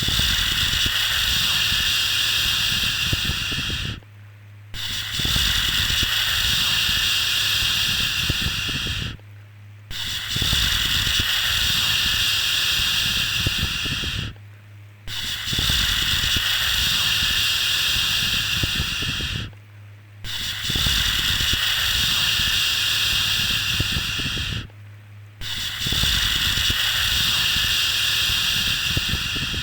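A long soothing 'shhh' shushing sound for settling a baby, a steady hiss repeated in a loop: each shush lasts about four and a half seconds, with a short pause of under a second between them, and a low rumble underneath.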